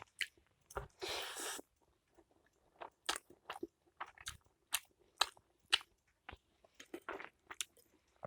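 A person chewing hot pot noodles close to the microphone: scattered wet mouth clicks and smacks, with a brief hiss about a second in.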